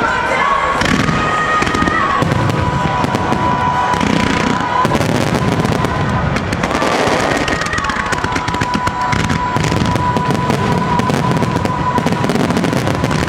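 Fireworks crackling densely and without a break, with steady whistling tones held over the crackle.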